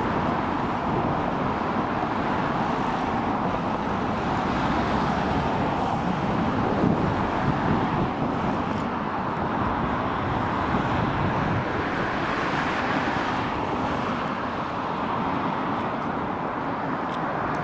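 Steam-hauled train of coaches running past at a distance: a steady rolling rumble of wheels on rail, with no separate exhaust beats.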